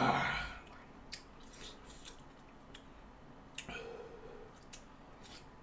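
A person eating a mouthful of rice and pork kimchi stew: quiet chewing with scattered light clicks of a spoon against a plastic container, and a short low hum about four seconds in.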